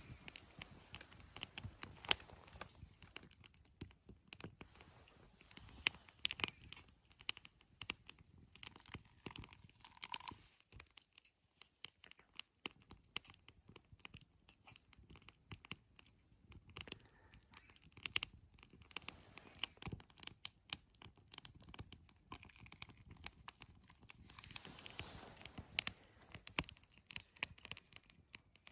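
Wood campfire crackling, with irregular sharp pops and snaps of burning wood.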